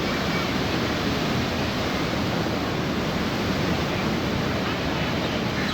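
Sea surf washing steadily at an even level, with no single wave break standing out.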